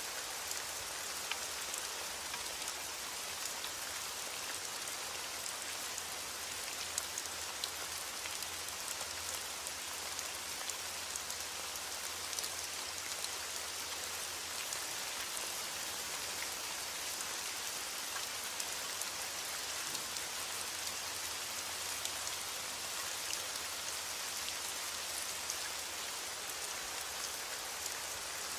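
Heavy rain falling steadily against a window, an even hiss, with scattered small pops and crackles from a wood fire mixed in.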